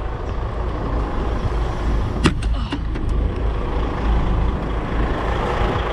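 Container truck's diesel engine running steadily at low speed, a constant low rumble, with one sharp click a little over two seconds in.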